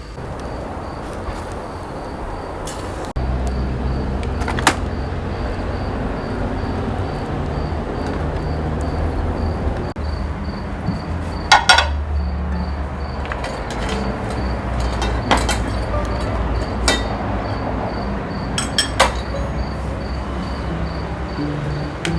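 A handful of sharp clinks and knocks of cooking utensils, over a steady low rumble and an insect chirping about twice a second.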